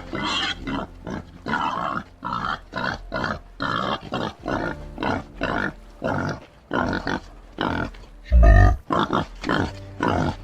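White-lipped peccary giving short, rapid grunting calls, about two a second, with a loud low thud about eight seconds in.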